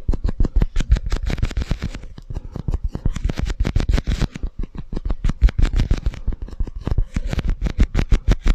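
Rapid, irregular tapping and scratching on two cups held close to the microphone, a dense run of sharp clicks and taps.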